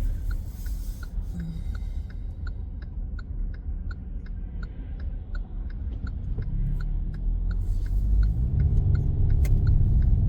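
Car interior: steady engine and road rumble with the turn-signal indicator ticking steadily, about three clicks a second. Near the end the engine note rises as the car accelerates.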